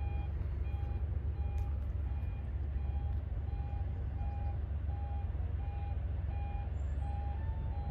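A vehicle's reversing alarm beeping evenly, about three beeps every two seconds, over a steady low engine-like rumble.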